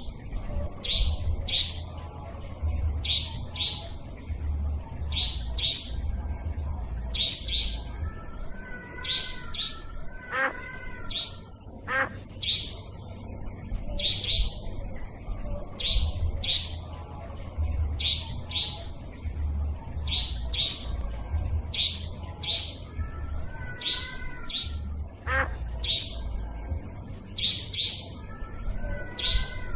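Nightjar calls on a lure recording: sharp, high calls, often in pairs, repeating about once a second. A few lower chirps are mixed in, over a steady low rumble.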